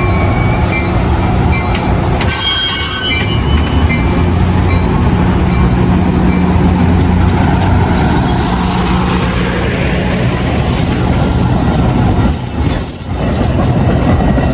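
Train running through the station with a steady low drone. Short bursts of high-pitched wheel squeal come about two seconds in and again near the end.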